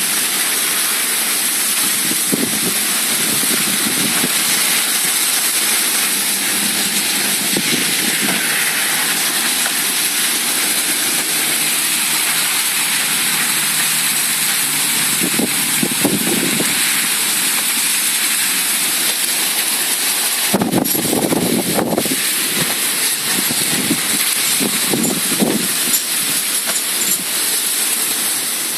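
Heavy rain pouring down in a loud, steady hiss, with a few brief low rumbles partway through.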